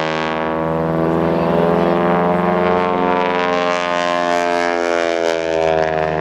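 Propeller airplane flying past, its engine a steady drone whose pitch shifts slightly as it goes by.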